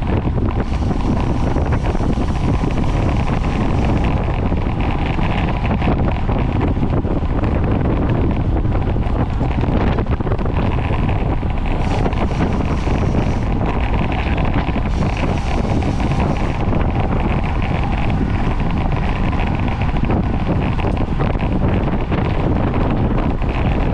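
Wind buffeting the microphone of a camera riding on a racing bicycle at speed, a steady loud rush.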